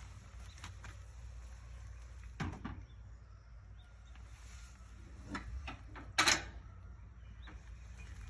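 A few short knocks and clunks over a low steady background, the loudest a sharp knock a little after six seconds in.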